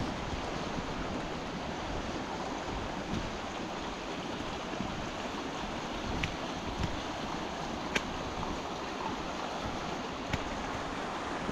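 Steady rush of a fast-running beck below a waterfall, mixed with heavy rain and wind buffeting the microphone. A few sharp ticks cut through, about six, eight and ten seconds in.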